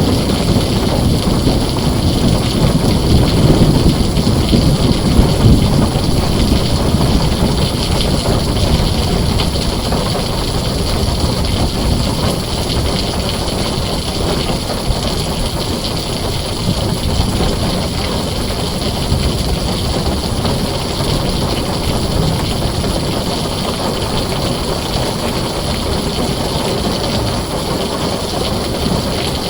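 Heavy rain falling steadily on a tin roof. A low rumble of thunder sits under it for the first several seconds and fades away.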